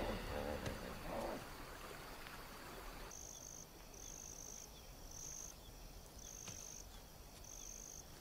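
A cricket chirping faintly in short, high-pitched trills about once a second, beginning about three seconds in.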